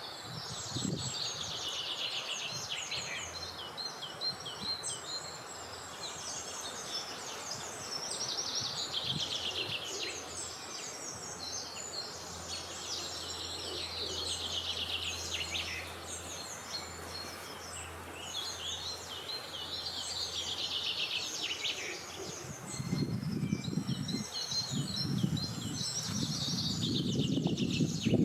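Outdoor birdsong: repeated descending trilled phrases every few seconds over a steady background hiss. From about 23 seconds in, gusts of wind rise beneath it.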